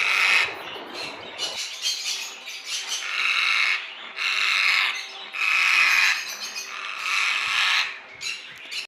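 Parrots squawking: about five loud, harsh screeching calls, each roughly half a second to a second long, spaced a second or two apart.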